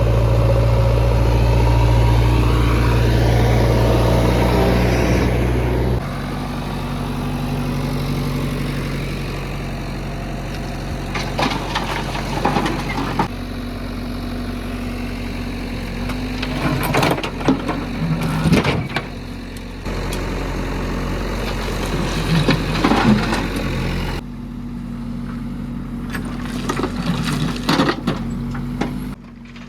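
Diesel engine of a JCB 3DX backhoe loader running, louder for the first six seconds, its steady tone changing abruptly several times. Short bouts of clatter and scraping come every few seconds as the machine works.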